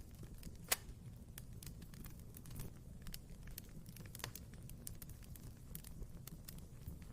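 Wood fire burning in a fireplace: a low steady rumble of the flames with frequent small crackles and a few louder pops, the sharpest just under a second in and another about four seconds in.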